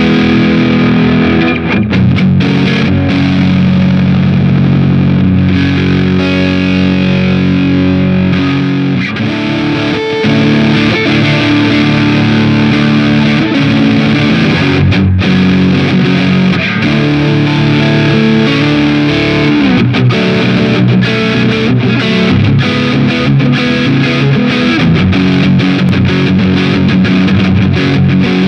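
A 1993 Mexican-made Squier ST electric guitar played through heavy distortion, with sustained chords and riffs that change every second or two.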